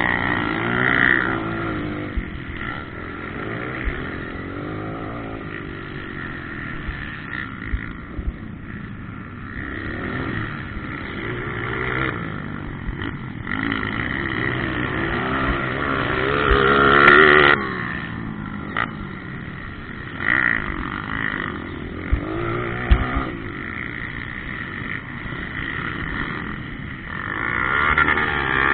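Motocross dirt bike engines running on the track, revving up and down in pitch as the bikes pass, loudest about two-thirds of the way through.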